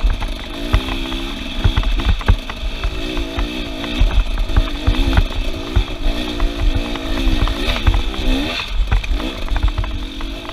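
Off-road vehicle engine revving up and down repeatedly, its pitch rising and falling every second or so, with frequent knocks and clatter and a low rumble.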